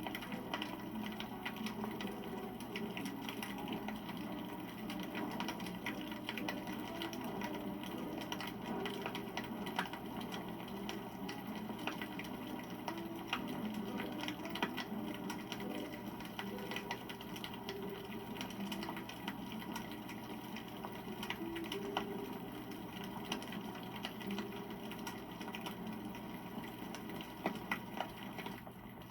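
Wood campfire burning: dense crackling with many small snaps over a low fluttering rush of flame, with a few louder pops near the end.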